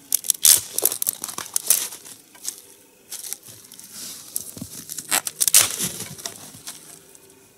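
Dry twigs and small branches rustling and crackling with sharp snaps as they are handled and laid crosswise as kindling; the loudest snaps fall about half a second in and around five and a half seconds in.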